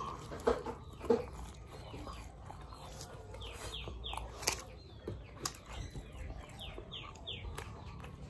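Faint runs of short, high, falling bird chirps, heard twice, with scattered soft clicks and taps from eating.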